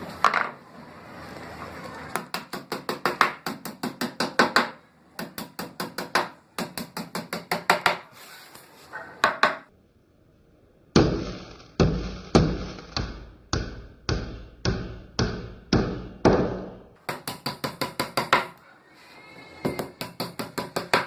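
Hammer tapping in quick runs of strokes, several a second, with a slower run of heavier knocks partway through.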